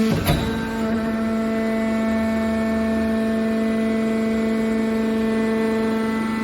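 Hydraulic metal baler's power unit running with a steady hum, with a single clunk about a third of a second in.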